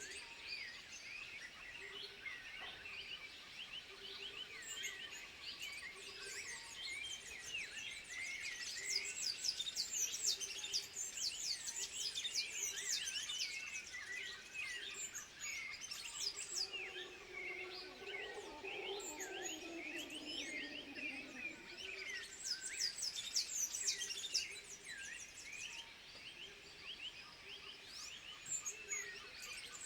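A dense chorus of high, quick chirping calls overlapping without pause. A lower, wavering call runs for about five seconds around the middle.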